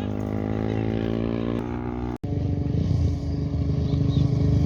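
Off-road race motorcycle engine running, its pitch slowly rising as it accelerates. The sound cuts out for an instant about two seconds in and comes back as a rougher, lower engine sound.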